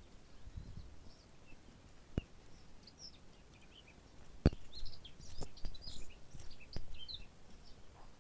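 Several small birds chirping in short, high twitters that grow busier from about three seconds in, with four sharp knocks, the loudest a little past the middle.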